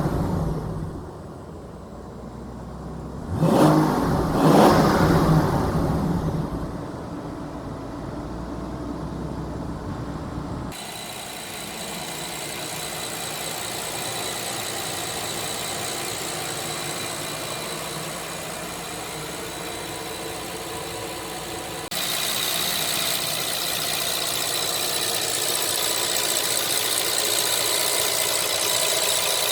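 BMW M760Li's 6.6-litre twin-turbo V12 revved: a rev dies away at the start, and a sharp blip about three and a half seconds in settles back over several seconds. After abrupt cuts about 11 and 22 seconds in comes a steady, even rush with a faint high whine, typical of the car on the move.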